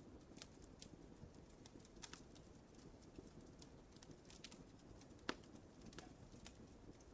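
Wood fire crackling softly over a low rumble, with scattered irregular pops and one sharper pop about five seconds in.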